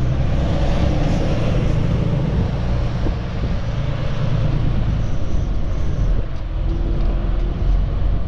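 Semi-truck's diesel engine running steadily, a low hum with road and cab noise over it.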